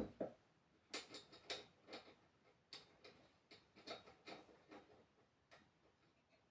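Faint, irregular light clicks and taps, a few each second and thinning out toward the end: handling noise from parts being worked on.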